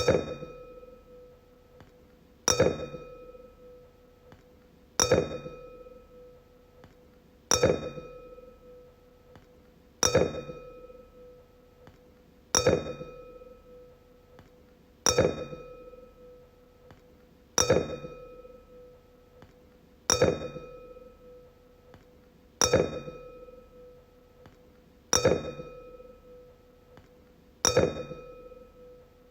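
Wine glass struck about every two and a half seconds, twelve times, each strike ringing out with one clear tone and fainter higher overtones that fade over a second or two.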